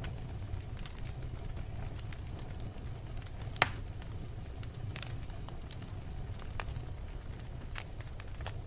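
Wood fire burning in a fireplace: a steady low rumble with scattered crackles and one sharp, loud pop about three and a half seconds in.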